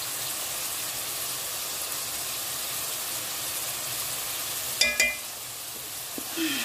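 Minced meat and chopped vegetables sizzling steadily in a pot on the stove, with a spoon stirring and clinking twice against the pot about five seconds in.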